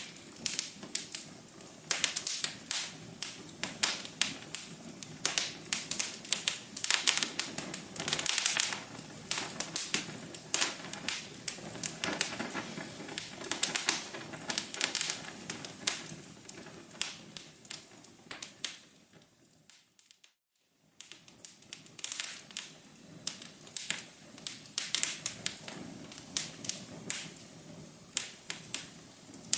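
Wood fire crackling in a fireplace: dense, irregular pops and snaps over a soft low hum. About two-thirds of the way through, the sound fades down to silence, then comes back about a second later.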